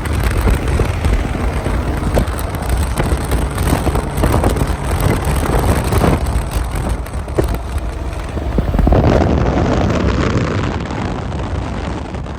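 Loud car engine and exhaust running hard, swelling about nine seconds in and easing off near the end.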